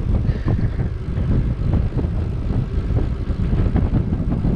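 Wind buffeting the microphone of a camera carried on a moving bicycle: a steady, loud low rumble with a few small knocks and rattles from the ride.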